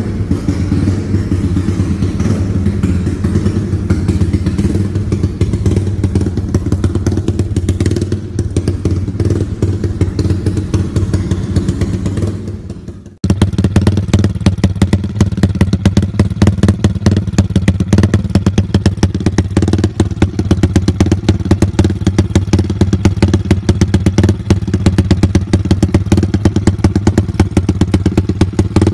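Yamaha Jupiter MX 150 (Y15ZR) single-cylinder four-stroke engine idling steadily through an aftermarket exhaust, with a rapid, even pulsing beat. Partway through, the sound cuts off and comes back louder and sharper.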